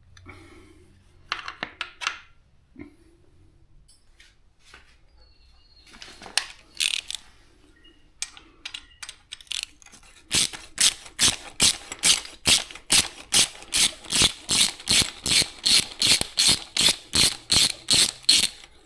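Hand socket ratchet being worked in quick, even strokes, about three a second, from about halfway through, after a few scattered clicks and clinks of tools.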